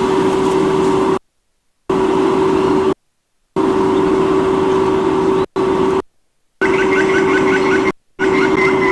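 Strong wind noise on a nest camera's microphone over a steady electrical hum, the audio cutting out to silence several times. About seven seconds in, a quick run of short high chirps.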